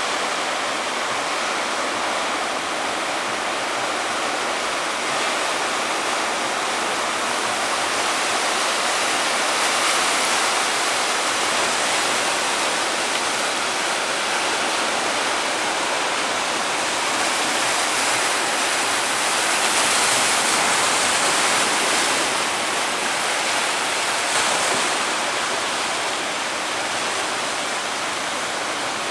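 Heavy ocean surf breaking in a continuous rush of water, swelling a little louder about ten and twenty seconds in.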